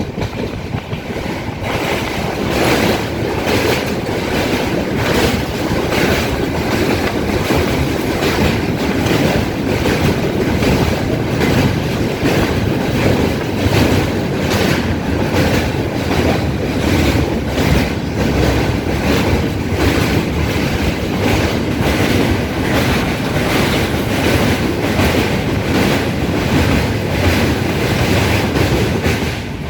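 Moving train running on the Dooars line, its wheels clacking over the rail joints in a steady, even rhythm under a loud rumble.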